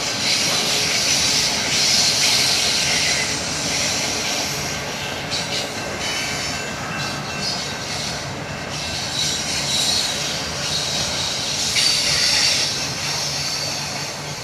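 Freight train rolling past: steel wheels on rail make a steady rushing hiss with a faint high squeal, swelling louder about two seconds in and again near the end.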